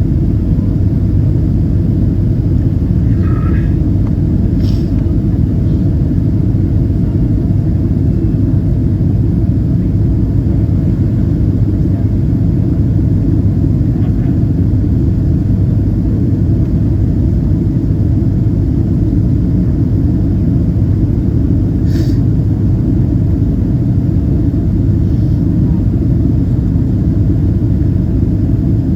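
Steady cabin noise inside a Boeing 767-300ER in flight: an even, loud rumble of engines and airflow. A couple of faint clicks come through, about four seconds in and again past twenty seconds.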